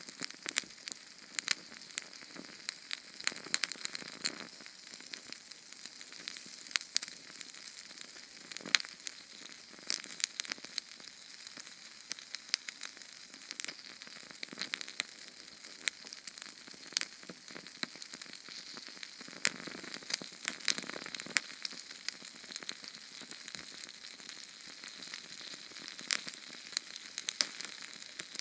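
Small Sterno canned-fuel flame crackling and hissing, with frequent sharp pops over a steady high hiss.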